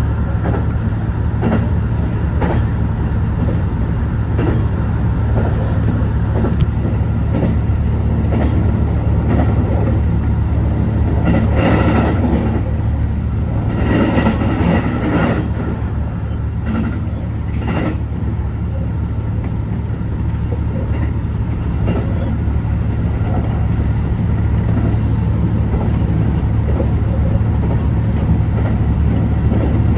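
HB-E210 hybrid railcar running along the line: a steady low hum of running noise with the wheels clicking over rail joints at a regular beat, and a rougher, noisier stretch about midway through.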